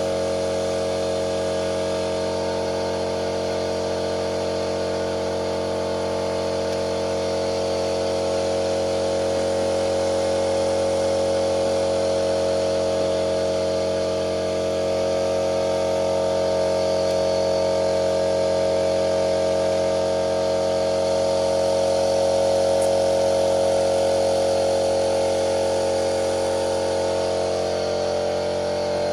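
Lada Priora engine with 81,000 km on it, running steadily at an even speed with a constant droning hum.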